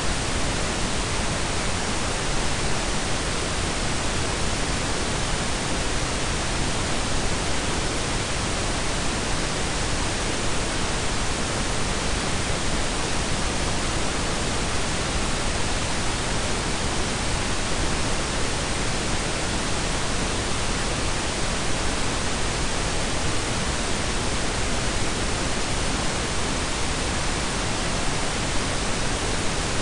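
Blended pink and brown noise: a steady, even hiss with a deep rumble underneath, unchanging throughout.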